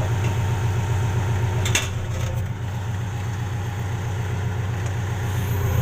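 Tracked excavator's diesel engine running steadily, with a sharp click about two seconds in, after which it runs a little quieter.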